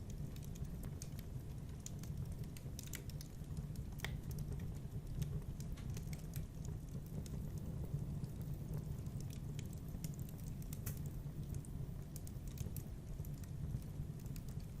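Wood fire in a fireplace crackling: irregular small snaps and pops over a steady low rumble of the flames.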